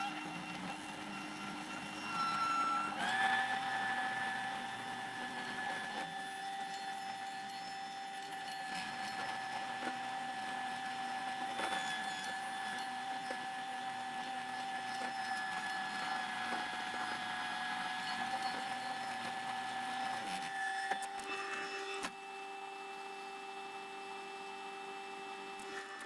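Skid steer track loader's engine and hydraulics running with a steady whine; the pitch steps up about three seconds in and drops to a quieter, lower whine near the end.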